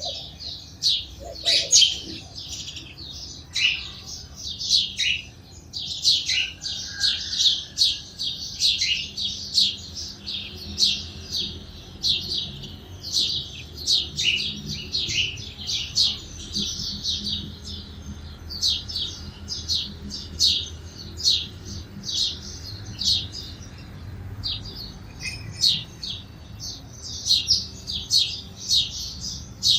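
A group of sparrows chirping steadily, many short high chirps in quick, overlapping succession.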